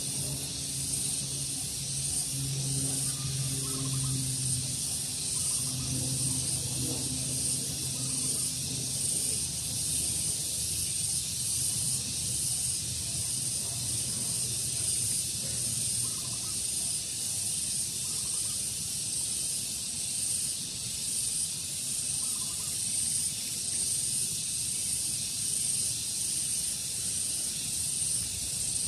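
Steady high-pitched hiss of outdoor daytime ambience, with a few faint short calls. A low hum runs under it for the first half and fades out about halfway through.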